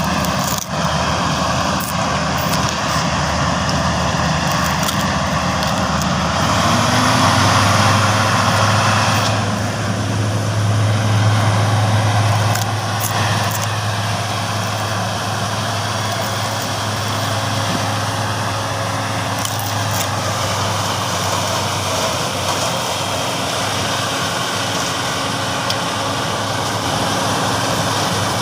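A vehicle engine running, rising in pitch about seven seconds in and louder for several seconds before settling back to a steady run.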